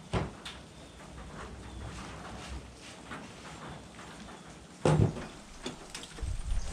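Scattered knocks and clicks: a sharp knock at the start and a heavier thump about five seconds in, the loudest sound.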